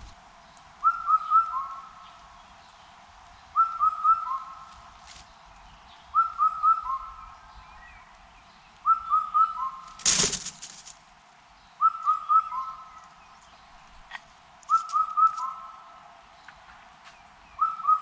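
A bird calling a whistled phrase of three or four short notes, the later notes lower, repeated about every three seconds. A loud brief rustling noise about ten seconds in.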